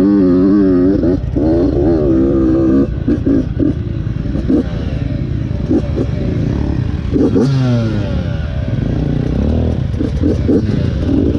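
Off-road vehicle engine under a rider's throttle, its pitch wavering up and down for the first few seconds, then short blips and a falling glide about seven and a half seconds in as the throttle is rolled off, with rattling and scraping along with it.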